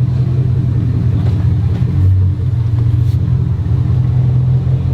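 The 6.0-litre V8 of a Chevrolet Silverado SS pickup running steadily as the truck drives, heard from inside the cab as a low, even engine drone with a slight change in tone about two seconds in.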